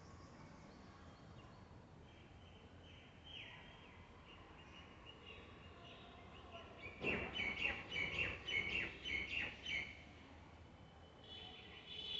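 Parrots calling: faint chirps, then a quick run of short, loud calls, about three or four a second, lasting some three seconds in the middle. Another burst of calls starts near the end.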